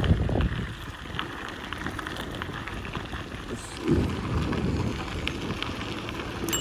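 Bicycle tyres rolling over a crushed-stone trail: a steady gritty crunching, full of small clicks from the gravel. Wind rumbles on the microphone at the start and dies away within half a second.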